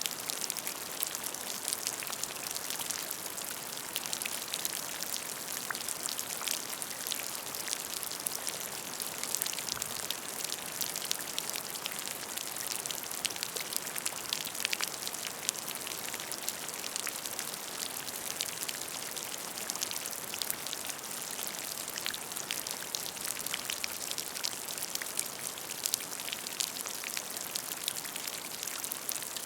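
Steady rain falling on a puddle: a dense patter of many small drops hitting the water's surface.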